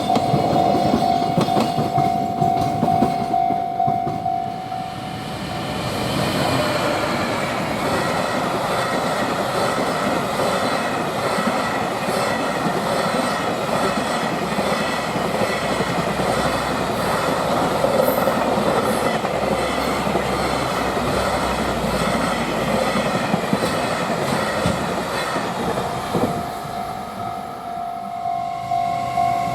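A long freight train passes close by over a level crossing, its wagons' wheels clattering over the rail joints for about twenty seconds. The crossing's warning bell rings at a steady pitch at the start. The bell is drowned out while the train goes by and is heard again near the end.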